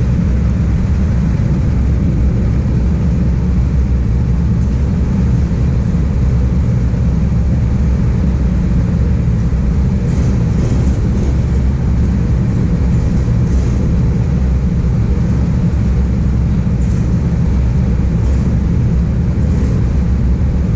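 Go-kart engine running steadily, heard onboard as a constant low drone without large changes in pitch, with a few faint high hisses about halfway through and near the end.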